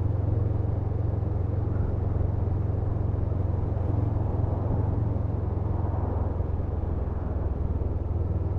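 Honda CMX500 Rebel's parallel-twin engine running steadily on the move: a constant low drone with an even rushing noise over it.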